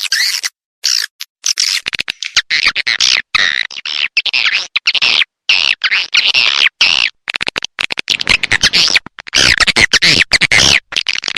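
Swiftlet calls: dense, overlapping high-pitched chirps and twitters from many birds, broken again and again by abrupt dead-silent gaps, as in an edited swiftlet-calling track.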